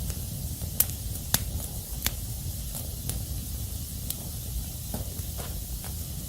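Wood fire crackling: a steady low rumble and hiss with scattered sharp pops, three louder ones in the first two seconds.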